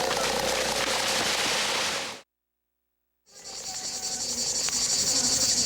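A dense crackling noise stops abruptly about two seconds in. After a second of silence, a chorus of insects fades in: a steady, pulsing high buzz, with a few bird chirps.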